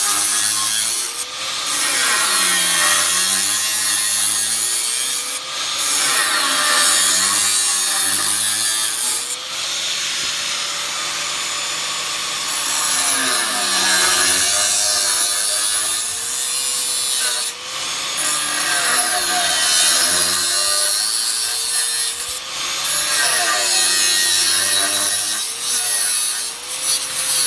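An electric power tool repeatedly cutting into sheet metal. Its motor whine drops each time it bites and climbs back as it is lifted, several cuts in a row. These are relief cuts every couple of centimetres so the metal strip can be bent to follow a wheel arch.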